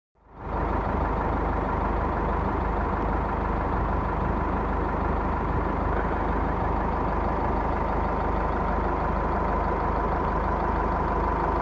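A motor vehicle engine running steadily, with a pulsing low rumble and a steady whine. It fades in quickly at the start.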